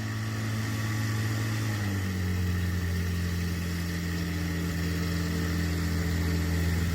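Engine of a Scheibe SF 25 Motorfalke motor glider running steadily at low power, its pitch dropping a little about two seconds in.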